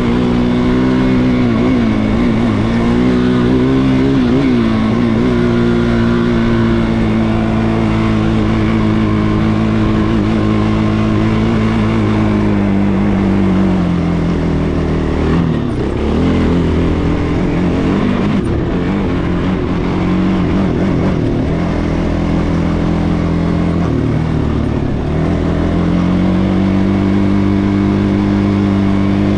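Quad (ATV) engine running loud and continuously under varying throttle. Its pitch wavers at first, then holds steady, drops off about halfway through and again later, and climbs near the end.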